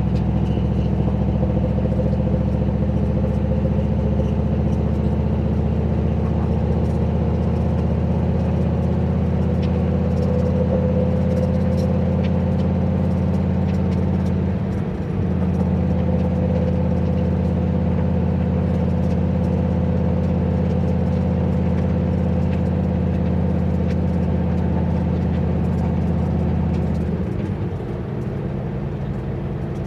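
Turbocharged 351 Windsor V8 of a Fox-body Mustang running at a steady cruise, with a steady exhaust drone. The note dips briefly about halfway through, then drops to a lower, quieter note near the end as the throttle eases off.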